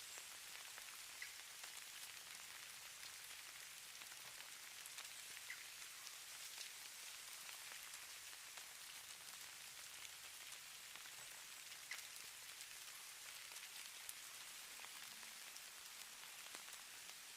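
Falling snow: a faint, steady soft hiss with small ticks scattered through it, as flakes and ice grains land.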